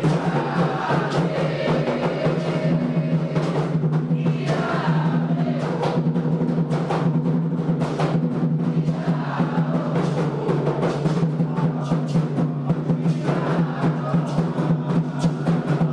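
Candomblé ritual drumming: atabaque hand drums played in a dense, steady rhythm, with group chanting for the orixá Xangô.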